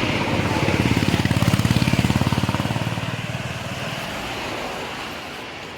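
An engine passing close by with a rapid, even chugging of firing strokes, loudest about a second and a half in and then fading away.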